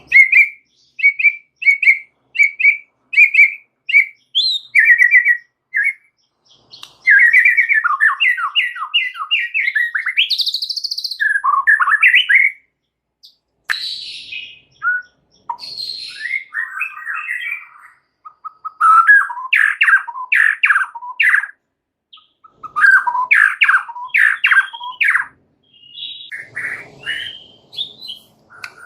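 White-rumped shama (murai batu) singing a varied, chattering song. It opens with a run of short, evenly repeated whistled notes, about two a second, then moves into fast rattling note series and rising whistles, with brief pauses between phrases.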